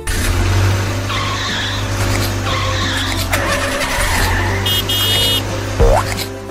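Cartoon sound effects of a car engine running with tyres skidding over children's background music, with a short run of high beeps a little before five seconds in.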